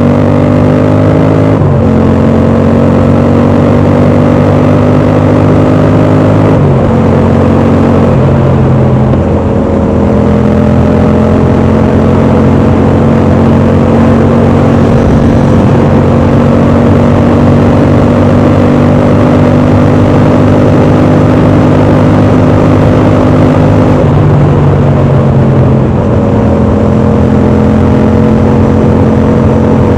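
Yamaha MT-07's parallel-twin engine, with its dB killer fitted in the exhaust, running under way. The pitch holds steady or creeps up and then steps down sharply about five times, like gear changes, with a long even stretch in the middle.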